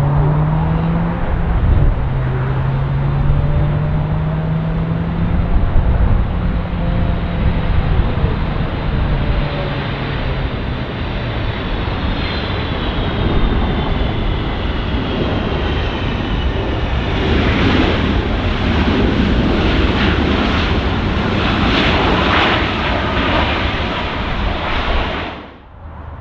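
Jet engines of a Delta Boeing 757-300 on landing approach as it passes by, a heavy rumble with a high whine that slides down in pitch as it goes past. The noise grows rougher and louder in the later part, then cuts off suddenly near the end.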